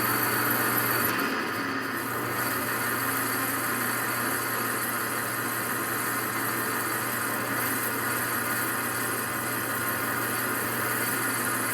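Small 3/4-horsepower metal lathe running steadily with a constant motor hum, turning a 6061 aluminum workpiece.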